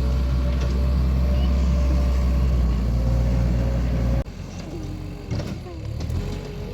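A motor vehicle's engine running steadily with a deep, even hum. About four seconds in it cuts off abruptly, leaving quieter background sound with faint wavering tones.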